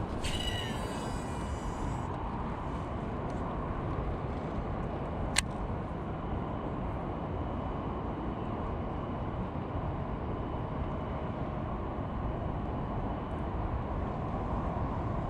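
Wind buffeting the microphone, a steady low rumble. A short high whir comes in the first couple of seconds, and a single sharp click about five seconds in.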